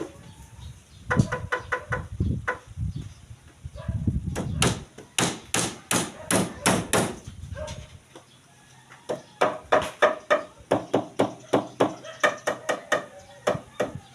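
Rapid hammer blows on steel, several strikes a second, in three runs with short pauses between them. Some strikes leave a brief metallic ring.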